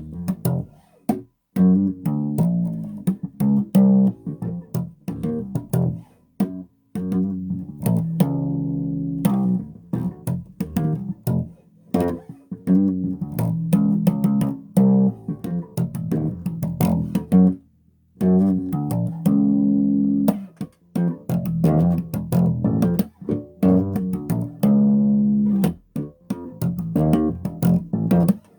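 Electric bass guitar played through an amplifier: plucked notes in quick phrases with short breaks between them.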